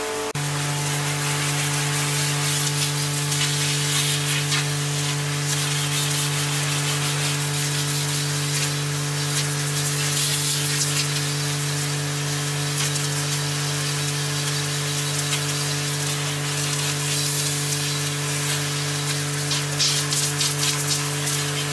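A steady machine hum with a continuous crackling hiss over it, starting just after the beginning and running without a break.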